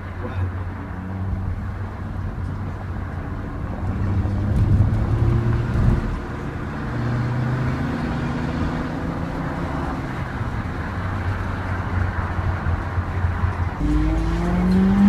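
Mercedes CLA45 AMG's turbocharged four-cylinder engine heard from inside the cabin, running on the road with its note shifting up and down over road noise. Near the end the engine revs up in a rising sweep and finishes in a sharp crack from the exhaust.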